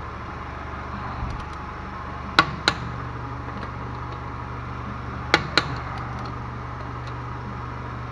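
Click-type torque wrench breaking over as wheel nuts reach their set torque: two double clicks, about two and a half seconds in and again near five and a half seconds, over a steady low hum.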